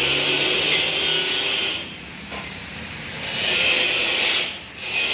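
Coconut husk shredder machine running with a steady noisy whir. It drops away about two seconds in, then builds back up with a faint rising whine, and dips briefly again near the end.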